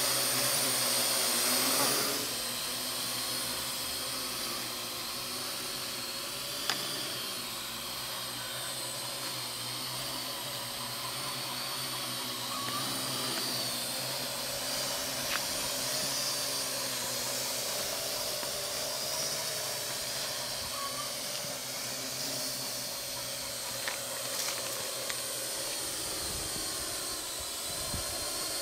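Parrot AR.Drone 2.0 quadcopter in flight, its four electric motors and propellers giving a steady whine whose pitch wavers a little as it manoeuvres. It is louder for about the first two seconds, then drops somewhat, with a few faint clicks along the way.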